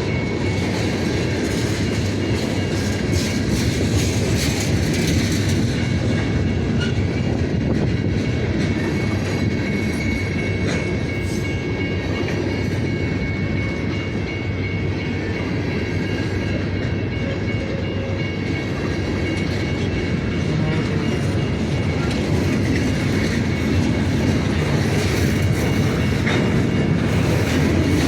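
Diesel-hauled local freight train moving: a steady engine drone with the cars' wheels clicking over the rail joints.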